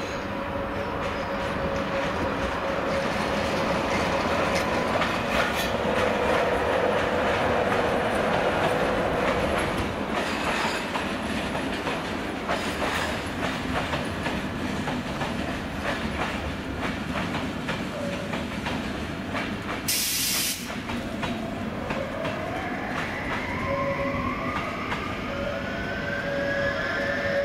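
Electric passenger train rolling through the station: wheels on rail with clicking over joints and a steady wheel squeal for the first several seconds. About 20 seconds in there is a brief hiss, and then an electric locomotive's motor whine rises steadily in pitch as it accelerates.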